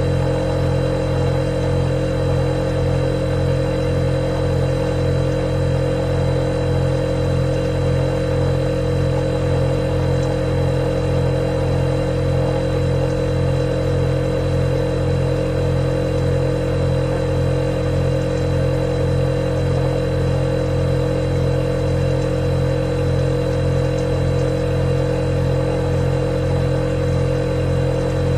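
Refrigerator running with a steady, even hum, low tones and a higher whine over a faint hiss, unchanging throughout.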